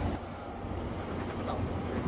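A passing commuter train, with a high wheel squeal, cuts off abruptly a fraction of a second in. It gives way to the low rumble of an NJ Transit train rolling toward the platform.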